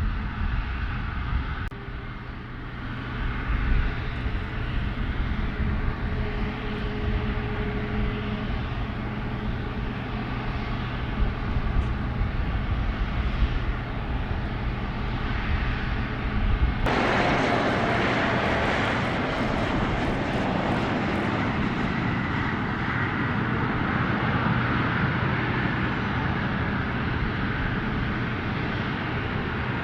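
Airliner engines running close by as an aircraft moves at the airport. About halfway through, the sound switches abruptly to a brighter, slightly louder engine noise.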